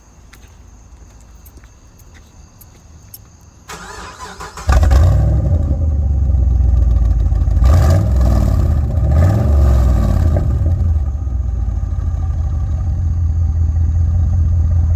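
2012 Chevrolet Camaro cranking for about a second, then firing with a sudden loud flare, revving briefly and settling into a steady idle. The exhaust runs through aftermarket Flowmaster mufflers with the resonators cut off.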